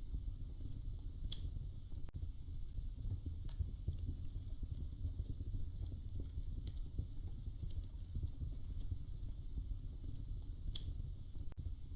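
Wood fire crackling in a fireplace: a steady low rumble with a handful of sharp pops, one every couple of seconds.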